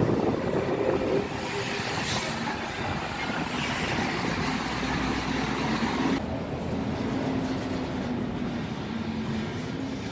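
Street traffic noise with a vehicle running close by, its steady low engine hum holding for most of the stretch.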